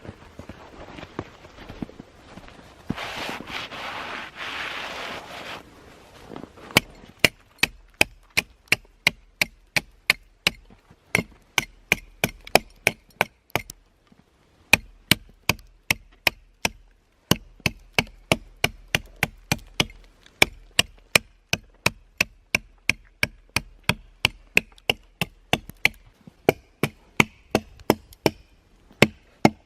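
Wood being chopped in quick, even strokes, about two to three sharp knocks a second with a few short pauses. The strokes start after a few seconds of rushing noise.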